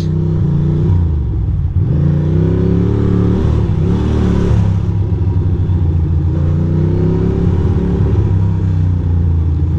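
2006 Ducati Monster 620's air-cooled L-twin engine running under way, its revs dropping and climbing several times through the gears. A brief hiss sounds about four seconds in.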